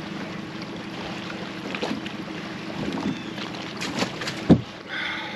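Boat motor idling steadily, with a few knocks and clatters from handling the fish and tackle in the boat. The sharpest knock comes about four and a half seconds in.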